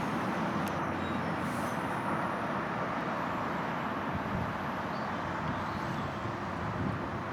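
Steady rumbling vehicle noise with no distinct beats or strikes, and a faint steady hum joining about five seconds in.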